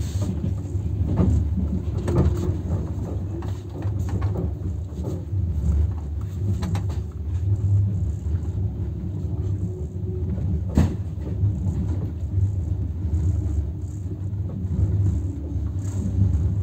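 Passenger train running: a steady low rumble with scattered knocks and clicks, the sharpest knock about eleven seconds in.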